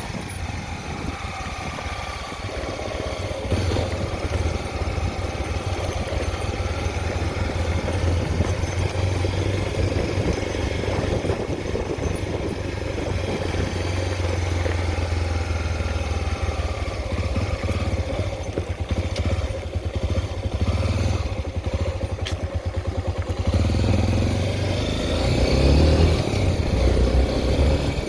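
Honda XR 250 Tornado's single-cylinder four-stroke engine running under way, its note shifting with the throttle and growing louder near the end.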